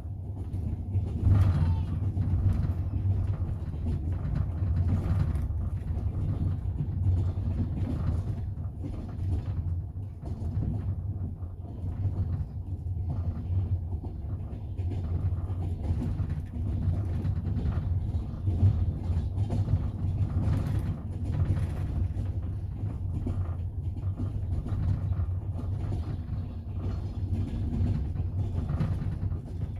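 Moving double-decker passenger train car heard from inside: a steady low rumble with the wheels clacking over rail joints, along with irregular knocks and creaks of the carriage.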